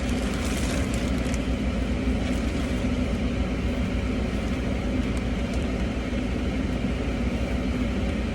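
Steady low drone of a car running while parked, heard from inside the cabin, with a few faint clicks in the first second or so.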